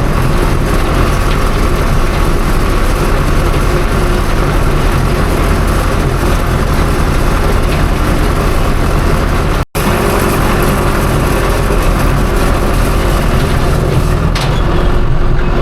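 Tractor engine running steadily while pulling a hay wheel rake down the windrow. The sound drops out for a moment just under ten seconds in.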